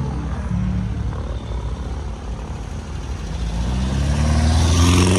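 Cars pulling out past at low speed, with a steady engine rumble; near the end an air-cooled VW Beetle's engine grows louder and rises in pitch as it accelerates by close up.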